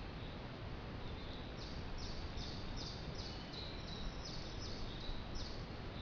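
A small songbird singing a run of about ten short, high chirps, roughly two or three a second, starting about a second and a half in, over steady outdoor background noise.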